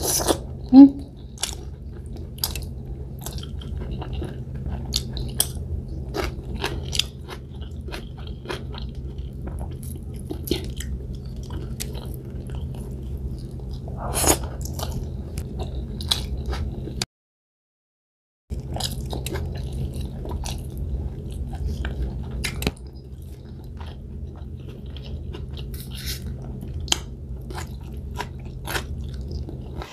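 Close-miked chewing and crunching of a person eating by hand, with many small wet mouth clicks over a low steady hum. The sound drops out to total silence for about a second and a half past the middle.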